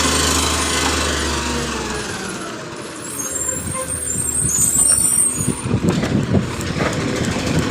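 Garbage truck: its engine runs steadily, then winds down about two seconds in. A hiss of air from the brakes follows, then rattling and knocking as the truck moves off.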